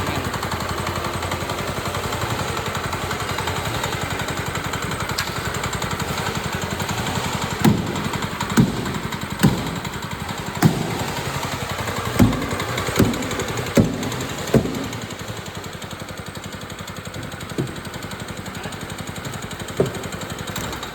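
Redfox power trowel's Nishikawa NGX 220 7.5 hp single-cylinder four-stroke petrol engine running steadily. A string of sharp knocks comes about once a second through the middle, with two more near the end.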